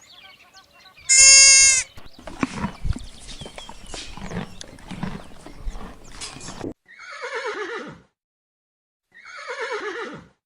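A short high bleat, then a few seconds of scattered knocking and shuffling, then two horse whinnies, each falling steeply in pitch with a quaver.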